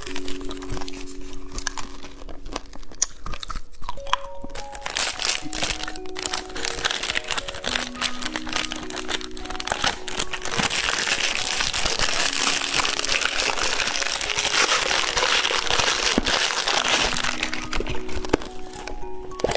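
Candy and its wrapper crinkling and crunching close to the microphone, densest for several seconds from about halfway through, over background music with a simple melody.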